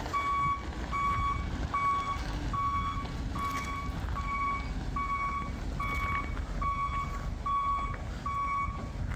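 A truck's backup alarm beeping steadily, about one beep every 0.8 seconds, stopping just before the end, over the low rumble of the idling engine.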